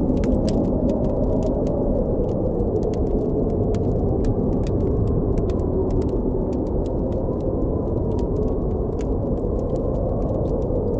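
Blizzard wind blowing in a steady low rush with a slowly rising and falling howl, over frequent small crackles and pops from a campfire.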